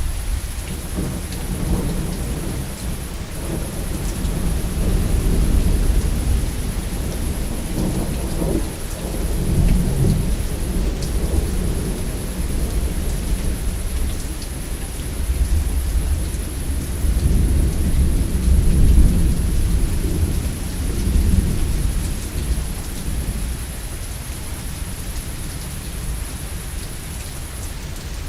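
Steady rain with long, low rolls of thunder rumbling through it, swelling twice and easing off near the end.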